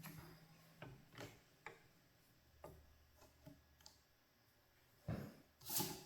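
Quiet handling sounds as the belt on a small belt-type knife sharpener is changed over: a few light clicks and taps, then two louder knocks near the end.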